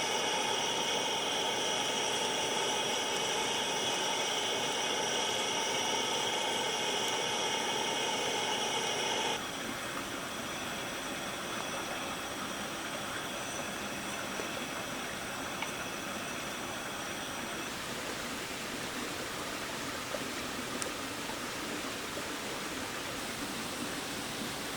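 Rain and wind in a forest: a steady rushing hiss with a few faint ticks of drops. For the first nine seconds a louder hiss with faint steady tones over it sits on top, and it cuts off abruptly.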